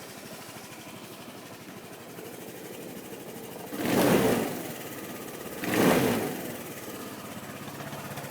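Stock exhaust of a Gilera Runner ST 200 scooter's single-cylinder four-stroke engine idling, blipped twice on the throttle, about four and six seconds in, each rev rising briefly and dropping back to idle.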